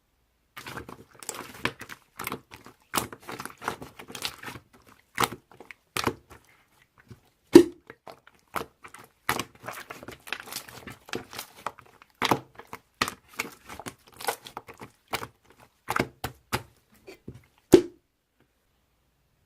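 Hands squishing and stretching clear slime with rose-shaped charms mixed in, making irregular sticky clicks and crackles. Two louder, deeper pops come about 7.5 s in and near the end.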